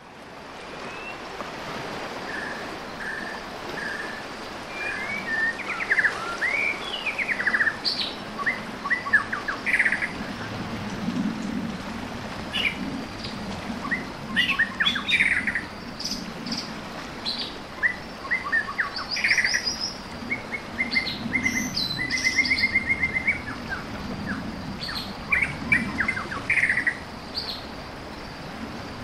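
Birdsong: a steady run of varied chirps, short sweeping calls and quick trills, over steady background noise.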